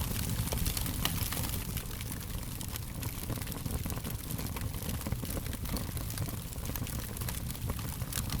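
A fire crackling: frequent sharp irregular snaps and pops over a steady low rumble.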